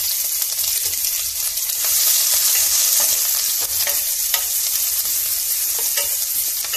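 Chopped onions, dried red chillies and curry leaves sizzling in hot oil in a stainless steel pot, with a spatula stirring and scraping through them, a few sharp clicks over the steady sizzle.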